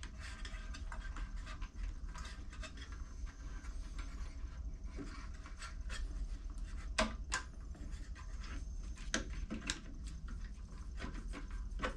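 Small metal engine parts being handled and worked into place by hand on a lawn mower carburetor: light scrapes and scattered clicks, with a few sharper clicks past the middle, over a low steady hum.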